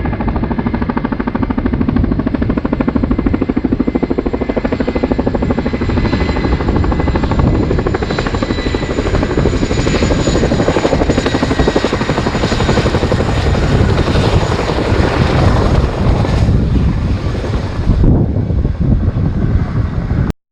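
Boeing Chinook HC.6 tandem-rotor helicopter running, its rotors making a rapid, even blade slap over a thin high turbine whine. The sound cuts off suddenly near the end.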